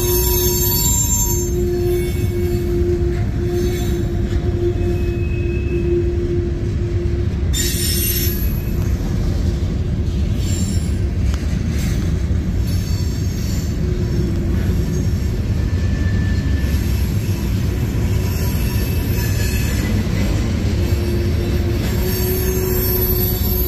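Freight train cars (boxcars, covered hoppers and tank cars) rolling past with a steady rumble of wheels on rail. A sustained squealing tone from the wheels comes and goes throughout, with brief higher-pitched squeals near the start, about eight seconds in, and near the end.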